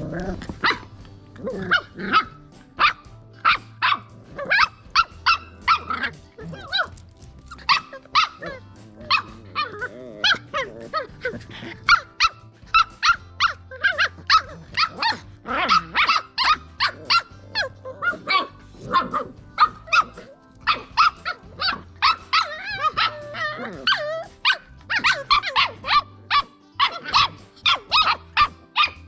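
Miniature Australian Cattle Dog puppies barking and yipping over and over, several short high barks a second, often overlapping.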